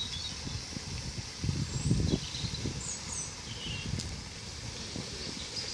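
Woodland ambience: a steady hiss with a few faint bird chirps, and wind buffeting the microphone about a second and a half in.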